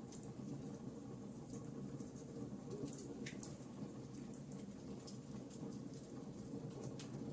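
Wood fire in a fireplace crackling: scattered sharp pops and ticks over a steady low rush of burning.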